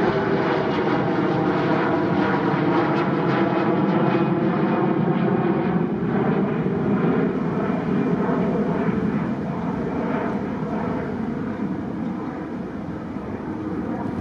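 Bombardier CRJ700 regional jet's turbofan engines at takeoff power: a loud roar with a whine that slides down in pitch as the aircraft passes, then gradually fades over the last few seconds as it climbs away.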